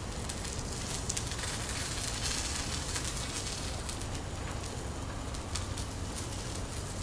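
Scallions, green beans and asparagus frying in oil on a Blackstone flat-top griddle as pancake batter is poured over them: a steady sizzle with scattered small crackles.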